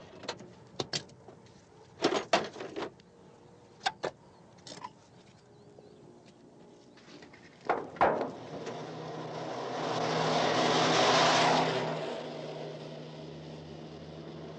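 A few sharp knocks and clanks, then a motor vehicle approaching and passing close by, its engine sound swelling to a peak and settling back to a steady hum.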